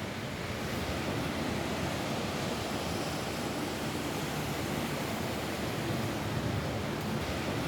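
Steady rain falling on a roof, an even hiss without distinct drops or breaks.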